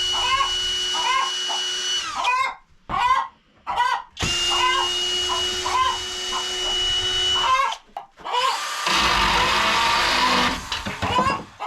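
Chickens clucking over a steady machine hum, broken by sudden cut-offs. About nine seconds in, a louder, noisy mechanical whirr takes over for a couple of seconds.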